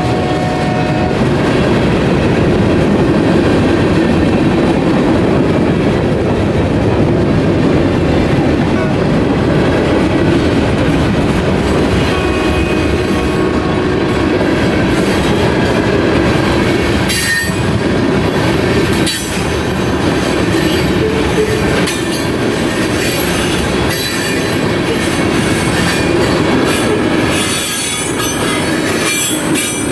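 Union Pacific train passing close by: the last of its horn ends about a second in, then the steady rumble of passing cars with wheel clatter over the rails, and wheel squeal in the second half.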